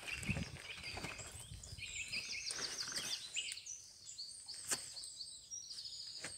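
Songbirds singing in woodland, a mix of high chirps and trills with a fast run of repeated notes about two and a half seconds in. Low thumps near the start and a couple of sharp clicks from movement close to the microphone.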